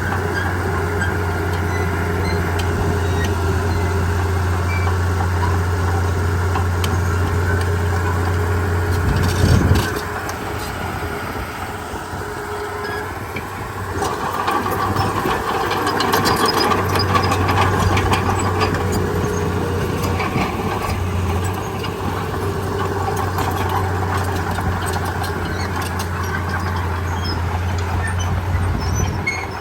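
Komatsu D31P bulldozer's diesel engine running under load, a steady low drone. About ten seconds in it peaks and then drops back. It rises again a few seconds later with metallic clanking.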